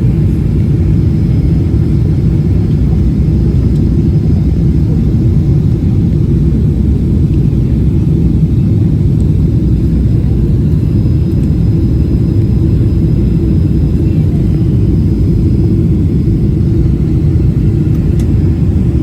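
Steady, loud rumble of a jet airliner's engines and airflow heard inside the passenger cabin.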